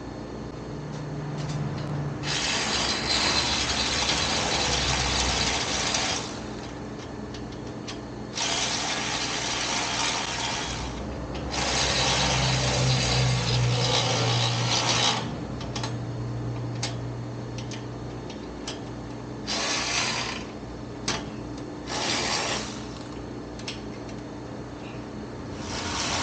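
A welder laying short beads on exhaust pipe: several bursts of steady hissing crackle, each lasting from under a second to about four seconds, with short pauses between them.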